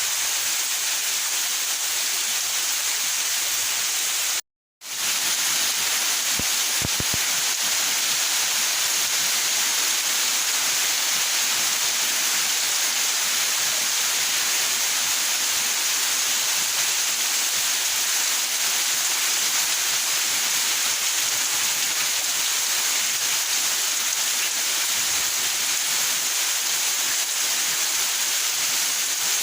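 Steady rain falling in a backyard: an even, continuous hiss of rain. About four and a half seconds in, the sound cuts out to silence for half a second, then resumes.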